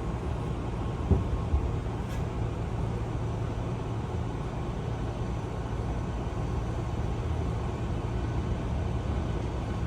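Steady low rumble of a Hankyu commuter train running, heard from inside the car, with two sharp knocks a little over a second in.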